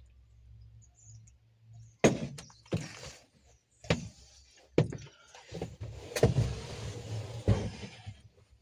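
A small 12-volt compressor fridge being pushed and worked into a tight cut-out in a van's cabinetry: a series of about six sharp knocks and bumps with scraping between them, starting about two seconds in.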